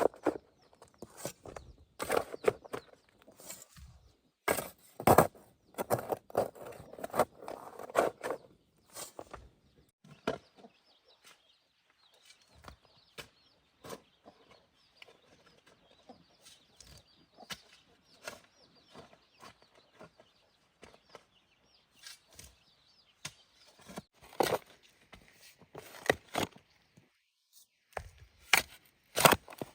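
Chickens clucking, with scattered sharp knocks and clatters throughout, most of them in the first third and near the end. A faint high hiss fills the quieter middle stretch.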